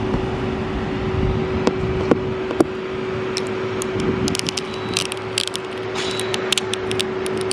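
Car running at low speed, with a steady hum and road rumble, and a run of small sharp clicks and ticks about two-thirds of the way in.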